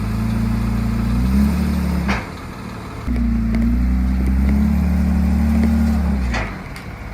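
Machinery on a car-transporter truck running with a steady low hum in two spells, stopping briefly about two seconds in and again near the end, each stop marked by a short hiss.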